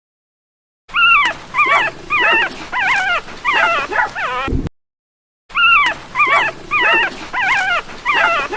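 A dog whining in short, high, wavering yelps, about seven in a row, then after a brief pause about five more.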